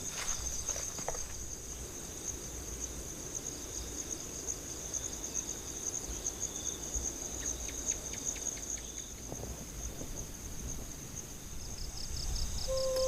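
Steady high-pitched insect trilling, with a few light clicks in the first second. Music comes in near the end.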